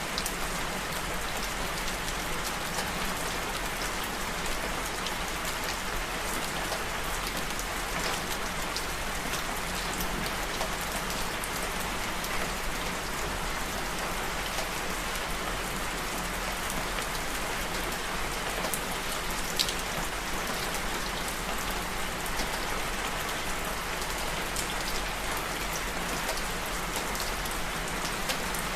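Steady rain falling, with many separate drops ticking close by and one louder drop about two-thirds of the way through.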